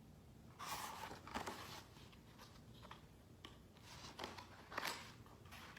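Paper pages of a picture book rustling as they are turned and handled: a longer rustle about half a second in, then a few short ones near the end. Faint.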